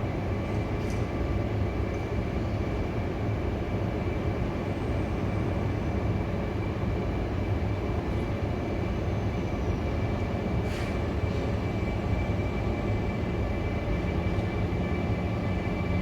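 CP Class 5600 electric locomotive running light as it arrives, a steady rumble with a thin high tone held above it.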